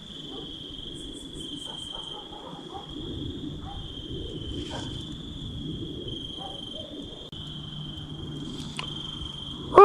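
A steady, high-pitched cricket trill over the low hiss of a spirit box's radio static, with a few faint, brief fragments coming through.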